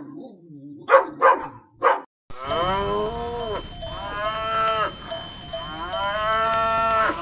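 A dog barks a few short times. From about two seconds in, a cow moos over and over in long drawn-out calls, which are the loudest sound.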